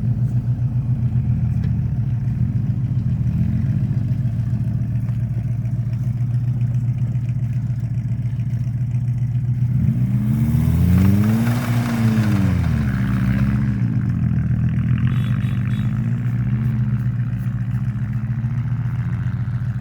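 Vehicle engine running with a steady low drone; about halfway through the engine speed rises and falls again over a few seconds, with a brief hiss at the peak.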